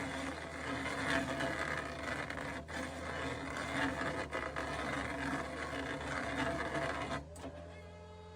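Excavator engine and hydraulics working, with grinding and rattling as a root-twisting attachment turns a stump in the ground. About seven seconds in it drops suddenly to a quieter steady hum.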